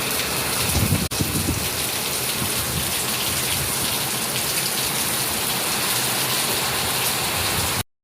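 Heavy rain pouring steadily, a dense even hiss, with a brief low thump about a second in. The sound cuts out abruptly just before the end.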